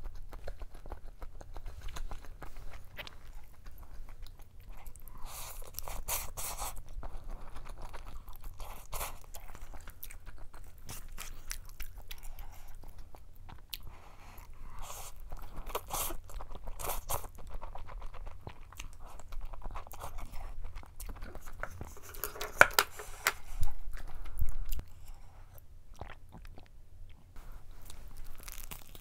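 Close-miked eating sounds: chewing and biting, first a hot bar, then Carbo Buldak cup noodles taken up with chopsticks, and near the end bites of a seaweed-wrapped triangle kimbap. The loudest eating noises come a little past two-thirds of the way through.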